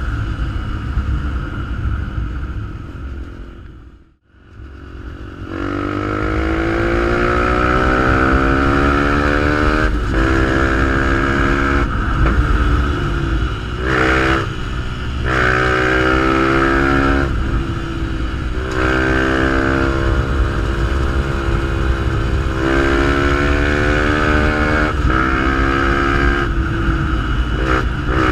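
Fantic 125 supermotard with a GPR exhaust being ridden hard: the engine note climbs in pitch again and again, broken by short drops as it shifts up through the gears. The sound fades almost to nothing for a moment about four seconds in, then comes back.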